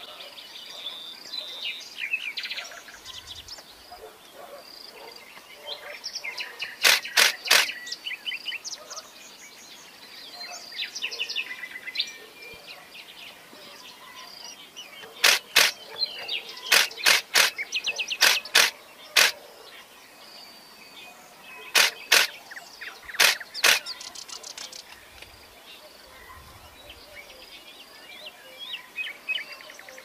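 Songbirds chirping and calling in short, varied phrases. Clusters of loud, sharp clicks in quick runs of two to five stand out about a quarter of the way in, around the middle, and about three quarters through.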